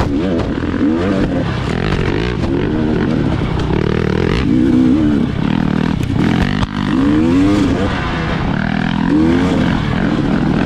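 Dirt bike engine revving up and down over and over as the throttle is opened and rolled off, with a brief drop about six and a half seconds in.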